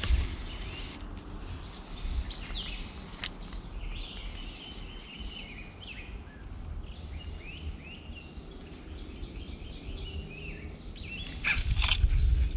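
Small birds chirping in short, repeated calls over a low, uneven rumble, with a few sharp clicks. A louder burst of rumbling and knocks comes near the end.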